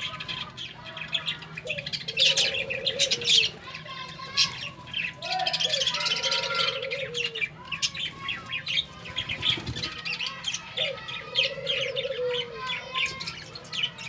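Budgerigars chattering with quick, high chirps, joined every couple of seconds by the low, rolling coo of a dove.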